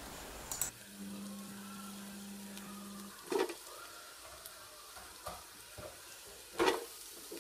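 Sliced onions sizzling in hot ghee in a metal pot as they are sautéed, with a slotted metal spoon scraping and knocking against the pot several times, loudest about three and a half seconds in and near the end. A low steady hum runs for about two seconds near the start.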